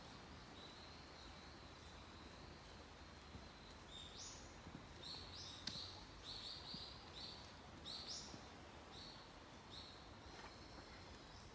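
Faint chirping of a small bird: a run of short, high calls in the middle, over quiet outdoor ambience.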